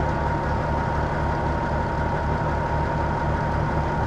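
Peterbilt 379 semi truck's diesel engine idling with an even low throb, a steady thin tone running above it.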